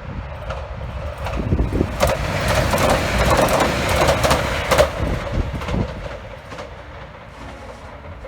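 A train running past, with many sharp clicks; the sound builds to a peak about three to four seconds in, then fades away.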